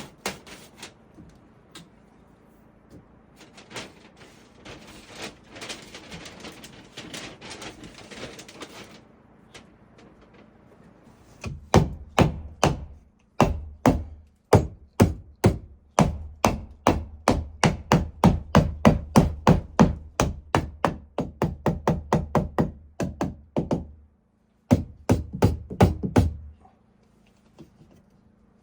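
Hammer driving nails into wood framing: a long run of sharp, evenly spaced blows, about two to three a second, with a brief break, then a few more blows. Before the hammering, several seconds of rasping strokes.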